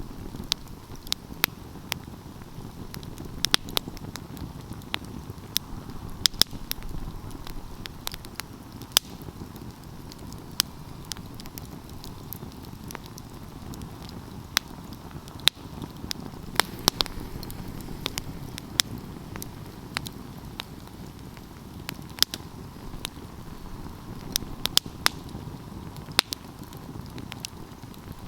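Wood fire crackling, with irregular sharp pops over a steady low rush of the flames.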